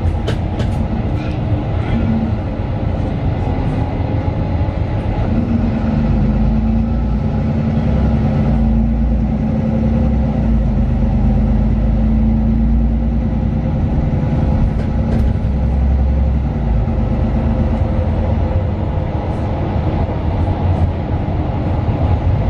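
Mercedes-Benz Citaro 2 city bus heard from inside the cabin, its OM 936 diesel engine and ZF Ecolife automatic running with a steady low rumble. A deeper engine tone comes in about five seconds in and fades out a few seconds before the end.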